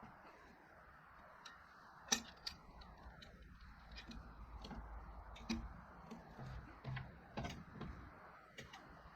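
A scattering of short, sharp clicks and knocks, the loudest about two seconds in, over a faint low rumble.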